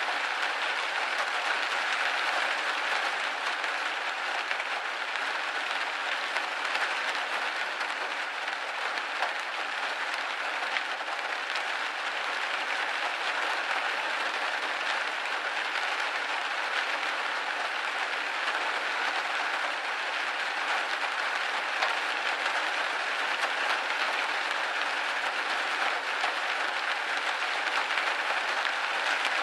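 Rain pattering steadily against a window pane, a dense even hiss of drops with fine scattered ticks and no change in strength.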